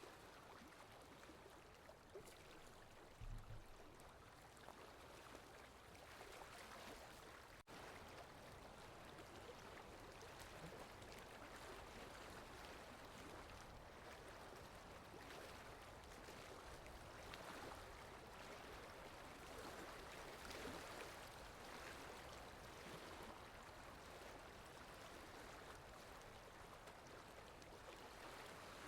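Faint, steady rushing-water ambience, with no music audible. A soft low thump comes about three seconds in, and the sound briefly drops out about eight seconds in.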